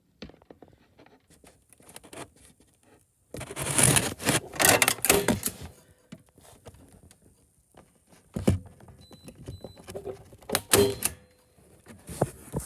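Staples being fastened over alarm wiring: bursts of quick taps and knocks. The longest run comes about three and a half to five and a half seconds in, with a single sharp knock near eight and a half seconds and another short run near eleven.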